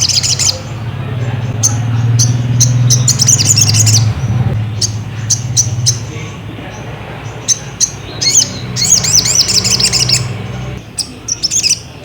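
Sogon sunbird song: spells of sharp, high chirps and quick twittering trills, four times, over a low steady hum that drops away near the end.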